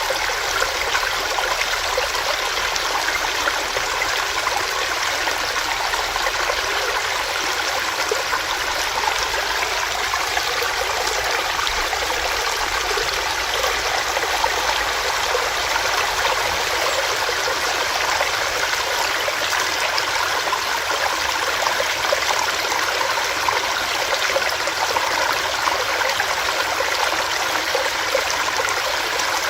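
Small stream running over rocks, a steady rush and babble of water.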